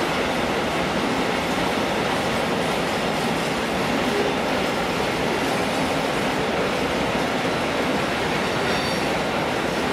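Freight train of tank wagons rolling past: a steady noise of steel wheels on the rails, with a faint high squeal near the end.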